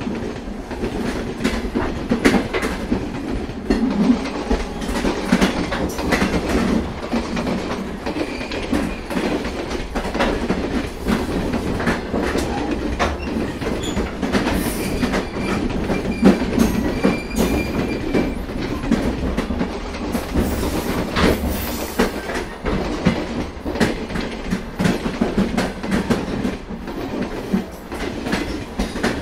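Passenger train running at speed, heard from an open coach door or window: a steady rumble and rush with the wheels clattering over the rail joints. A faint high squeal from the wheels comes and goes around the middle.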